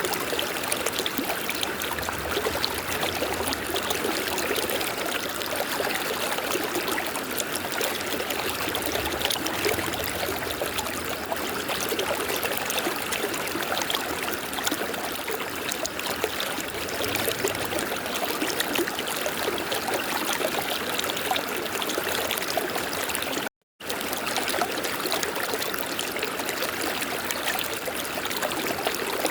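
River water flowing steadily. The sound cuts out completely for a split second about three-quarters of the way through, then resumes unchanged.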